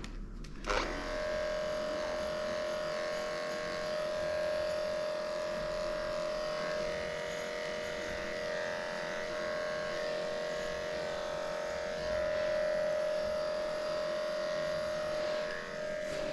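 Electric dog grooming clippers running with a steady buzz, switched on under a second in.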